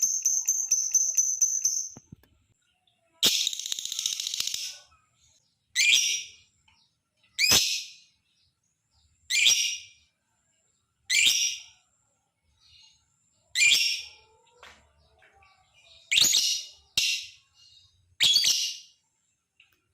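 Lovebird calling: a fast, high, pulsing trill that stops about two seconds in, then a long harsh screech, then a series of short, sharp shrieking chirps about every two seconds.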